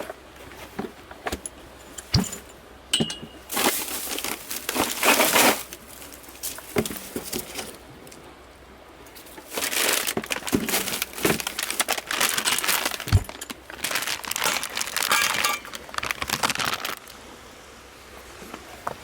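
Handling noise: bursts of crinkling and rustling with scattered sharp clicks and clinks, a short stretch a few seconds in and a longer one from about ten seconds in.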